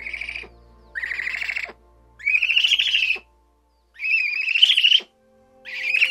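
A small pygmy owl giving a series of high, trilling whistled calls, each about a second long with short pauses between. The calls grow louder through the first four, and a fifth begins near the end.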